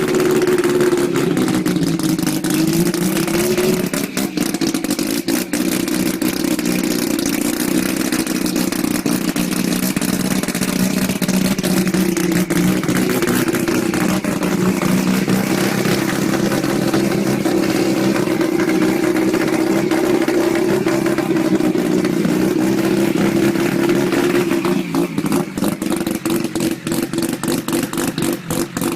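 Turbocharged 13B twin-rotor Mazda rotary drag engine running on methanol, loud and steady, its pitch dipping and rising a little with light throttle. In the last few seconds the note turns choppy and pulsing.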